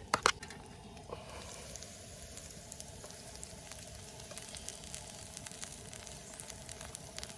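Garlic rice frying in a pan over a fire: a steady sizzle with many small crackles and pops.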